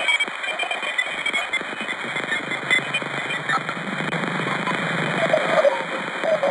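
Dense crackling static like radio hiss, full of fine clicks, with a few short wavering tones near the end.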